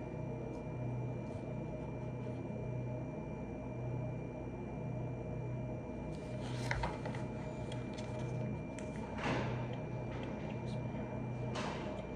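A steady low hum with a faint high whine, broken three times by brief rustling or handling noises.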